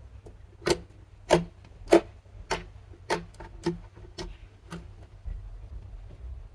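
Slime being kneaded and pressed, giving sharp popping clicks, about eight of them evenly paced a little over half a second apart, loudest near the second and third, then trailing off in the last couple of seconds.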